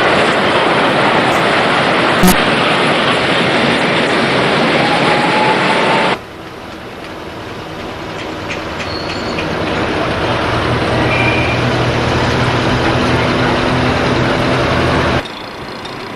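A moving vehicle: a loud steady rumble with one sharp click about two seconds in. After a sudden cut about six seconds in, a quieter run with a low hum follows and slowly grows louder, then cuts off about a second before the end.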